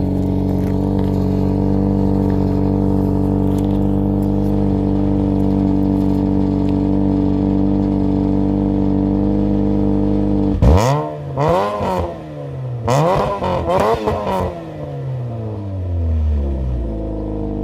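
Saturn Ion Redline's supercharged 2.0-litre four-cylinder idling steadily, then revved in a quick series of throttle blips about eleven seconds in before settling back to idle. The exhaust flange leak has just been sealed with doubled gaskets and RTV, and the exhaust now sounds way better.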